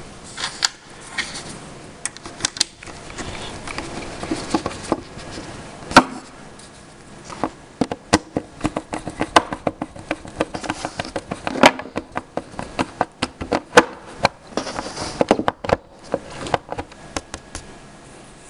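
Irregular clicks and small knocks of metal cupboard-door hinge hardware being handled and worked, the sharpest about six seconds in and again near twelve and fourteen seconds.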